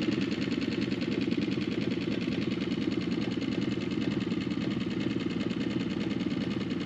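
Small outboard motor on a dinghy running steadily at low speed, with a fast even pulse.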